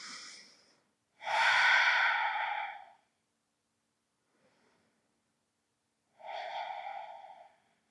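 A person breathing out audibly: two long, breathy exhales, a louder one just over a second in and a softer one near the end, after a faint breath at the start.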